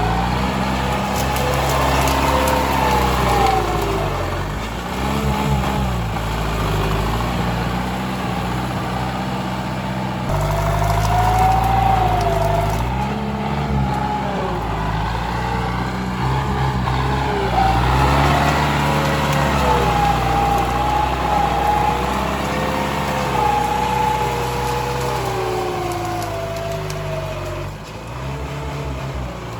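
Tractor engine working under changing load, its speed repeatedly dropping and picking up again. A higher whine rises and falls along with it.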